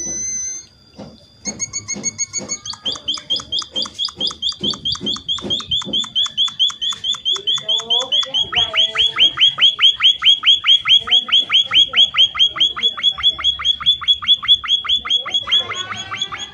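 A munia (emprit) singing a long, fast run of sharp high notes, about six a second, evenly repeated; about halfway through each note becomes a longer downward sweep.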